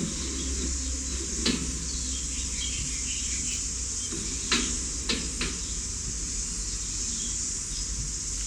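Steady high-pitched chorus of insects, with a few sharp knocks: one about a second and a half in, and three more close together around five seconds in.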